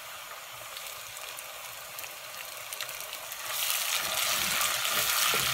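Sliced onions and tomato paste frying in oil in a pot, a steady crackling sizzle. About three and a half seconds in it grows clearly louder as the paste is stirred through the hot oil with a wooden spoon.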